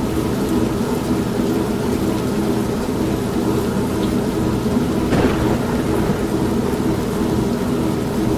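Old manual washing machine running with a steady low hum, mixed with continuous rain and thunder. A brief louder rush comes about five seconds in.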